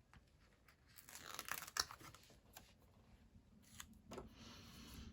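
A paper sticker being peeled off its backing sheet and handled, faint: a short rasping tear about a second in, then a few light clicks and a soft rustle near the end.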